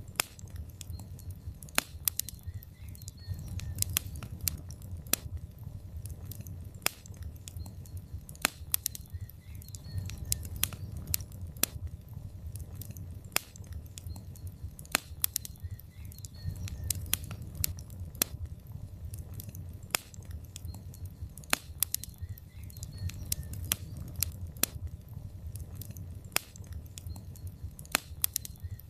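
Wood fire in a fireplace, burning logs crackling and popping at irregular intervals over a steady low rumble of the flames.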